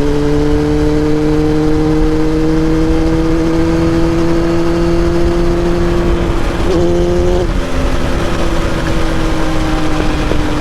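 Kawasaki ZX7R's 750 cc inline-four running under way, heard through exhaust and helmet microphones over wind and road noise. The engine note climbs slowly, drops about seven and a half seconds in, then slowly falls.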